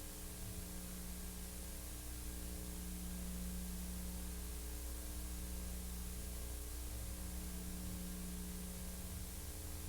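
Steady hiss with a low electrical hum, and no other sound.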